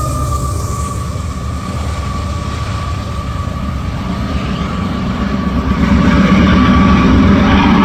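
Loaded coal train running past at speed: wheels rumbling and clattering over the rails as the rear GE CW44AH distributed-power locomotive goes by. A steady high-pitched ring sits over the rumble throughout. The noise grows louder about two-thirds of the way in.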